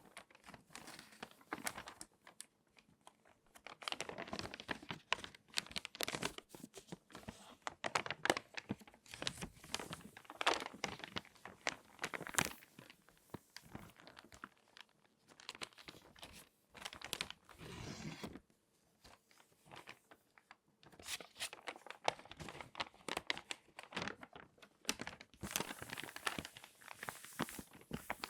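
Crinkly magazine pages being handled and folded, crackling in irregular bouts separated by a few short pauses.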